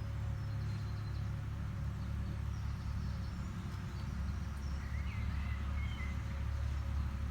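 An agricultural machine's engine runs with a steady low drone throughout. Birds chirp briefly over it about five seconds in.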